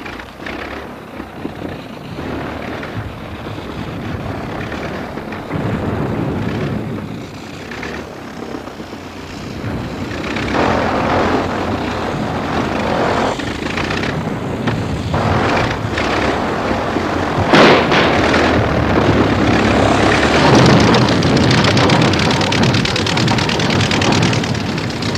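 A propeller biplane's engine running as the aeroplane flies, growing louder about halfway through, with a sharp crack a little later.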